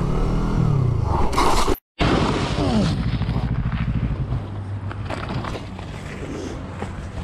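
Motorcycle engine falling in revs as the rider brakes hard, then a short burst of noise and a scraping slide as the bike goes down on gravel in a low-side crash. The engine then runs on at a steady idle, with a few sharp clicks.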